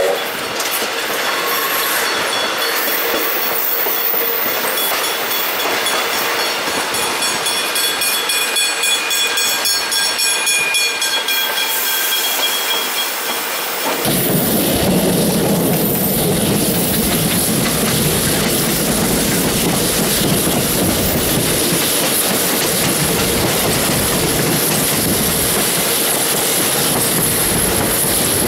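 Vintage broad-gauge carriages of a tourist train hauled by the J class steam locomotive J515, heard from an open carriage window. The wheels squeal in several thin high tones over the clickety-clack of the rails. About halfway through the sound changes abruptly to a deeper, steadier rumble with hiss.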